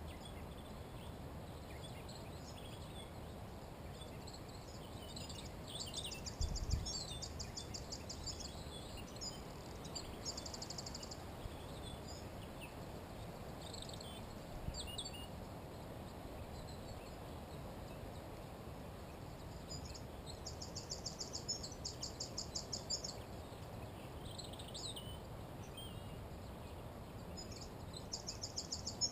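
Songbirds singing at a forest edge: several short, high-pitched trills of rapidly repeated notes, a few seconds apart, with scattered chirps between them, over a steady low background rumble. A brief low thump comes about six seconds in.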